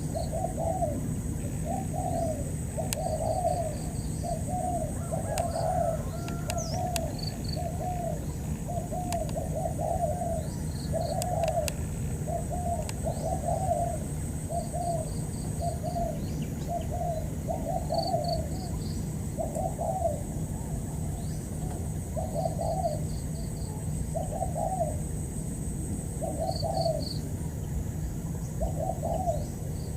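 Spotted doves cooing: low coo notes repeat about once a second, dense in the first half and more spaced later. Short, rapid series of high chirps come in now and then.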